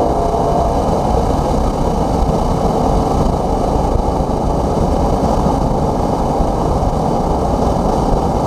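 BMW E90 M3's V8 engine running as the car is driven at speed, heard from inside the cabin with road and wind noise. The sound is loud and steady, without marked rises or falls in pitch.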